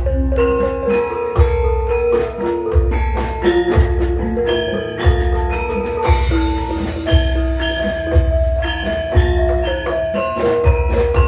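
Javanese gamelan ensemble playing a gending: bronze metallophone notes ringing over a steady, deep drum beat, with a cymbal-like crash about six seconds in.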